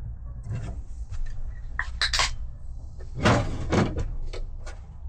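Several knocks and clunks of camper cabinetry being handled, the loudest about three seconds in, over a low steady hum.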